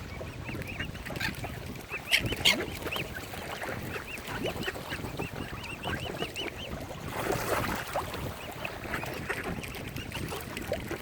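Swans and mallard ducks calling: a steady stream of many short, high peeps, with a louder burst of sharp calls about two seconds in. A brief rush of noise rises and falls around seven seconds in.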